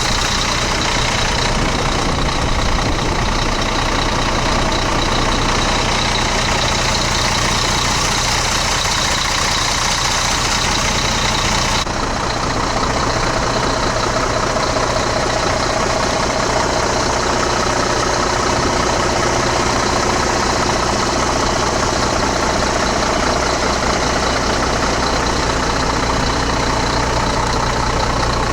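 Scania G380's 11.7-litre six-cylinder PDE turbodiesel idling steadily. About twelve seconds in the sound shifts abruptly and goes duller on top.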